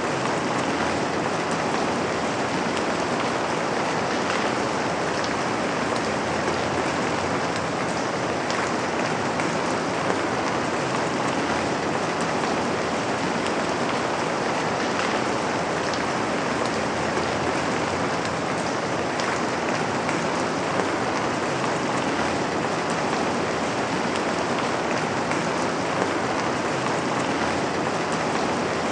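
Steady rain falling on a window: an even hiss with a few scattered drop taps.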